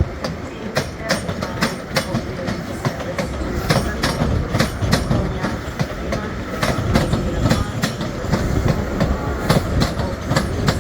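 Train moving slowly, its wheels clicking irregularly over rail joints and points over a low, steady rumble.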